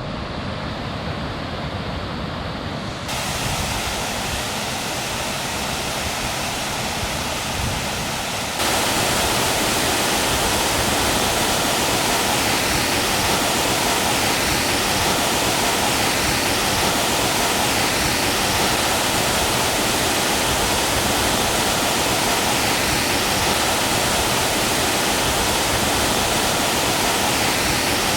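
Waterfall on a mountain creek: a steady rush of falling water that steps up abruptly louder twice, about 3 s in and again about 8 to 9 s in, then holds.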